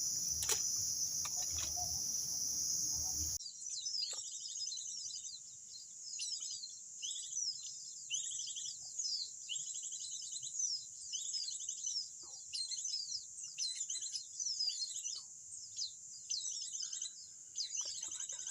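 A steady, high-pitched insect drone fills the first few seconds and cuts off abruptly. Then many small birds chirp and twitter, with short rapid trills repeating over and over, above a fainter steady insect hum.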